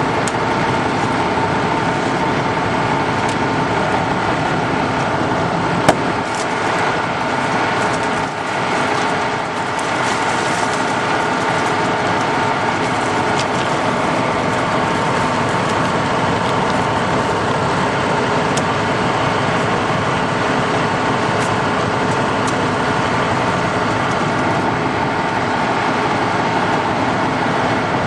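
Vehicle engines idling steadily, a noisy drone with a steady whine running over it. One sharp click comes about six seconds in.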